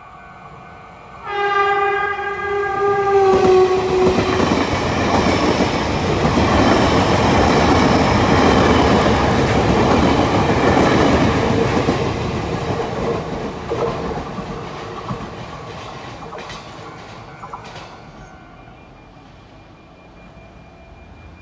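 Taiwan Railway TEMU2000 Puyuma Express electric tilting train gives one horn blast of about three seconds, starting about a second in. The horn is sounded because an obstacle is on the level crossing ahead. The train then passes slowly with heavy rumble and wheel clatter that fades away over the last few seconds.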